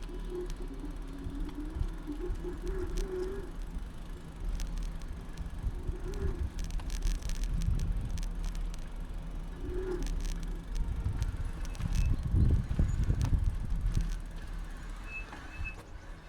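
Bicycle riding over city streets, heard from a camera mounted on its handlebars: a steady low rumble of tyres on the road with frequent rattles and clicks. The rumble is heaviest about twelve seconds in.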